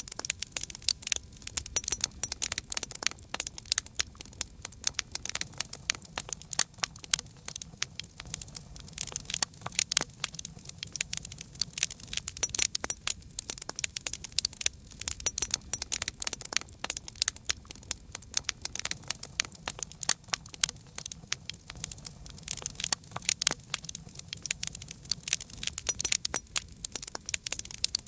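Campfire crackling: a steady, dense stream of sharp snaps and pops from burning wood.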